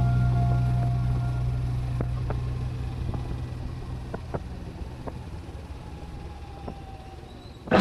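Kawasaki Ninja 300's parallel-twin engine running, its sound fading steadily and dropping slightly in pitch, with a few faint clicks.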